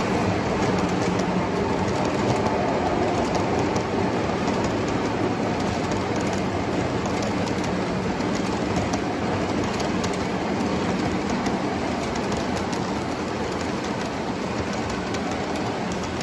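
O gauge model train pulling a string of boxcars along three-rail track: a steady rolling rumble of wheels with light clicking at the rail joints, slowly growing fainter.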